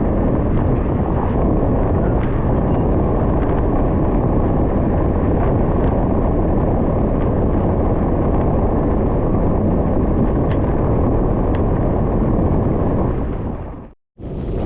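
Steady wind rumble on the microphone with tyre noise from a bicycle riding on gravel. The sound cuts out for a moment near the end.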